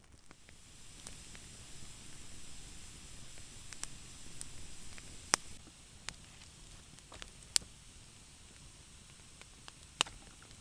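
Campfire burning with a steady hiss, louder in the first half, and a few sharp pops from the wood.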